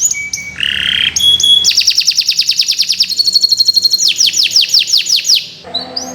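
Domestic canary singing a long, continuous song. It opens with a few held whistled notes, then runs into fast trills and rapid series of downward-sweeping notes, with a short break near the end.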